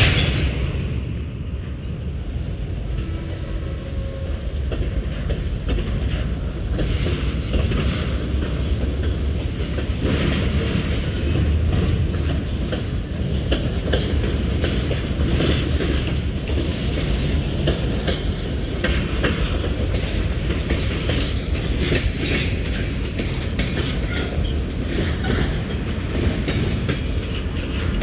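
Railroad cars rolling through a railyard: a steady low rumble with wheels clicking and clattering over the rail joints.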